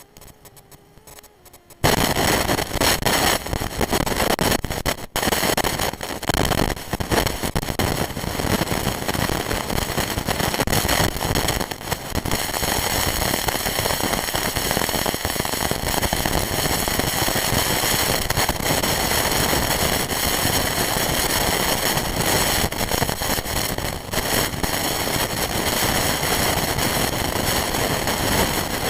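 Quadcopter motors and propellers running at speed, a loud steady crackly rush with a whine through it. It cuts in suddenly about two seconds in.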